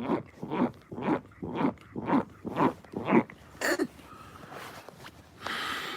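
A man making a run of short non-word vocal noises, about eight quick bursts at roughly two a second, followed by a breathy hiss near the end.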